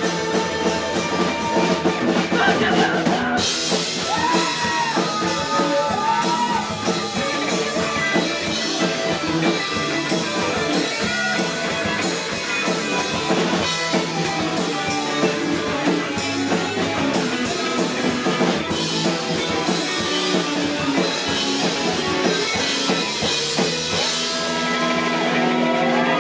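Rock band playing live: a drum kit with cymbals under electric guitar, with wavering, bending guitar lines. Near the end the cymbals drop away and the guitars ring on.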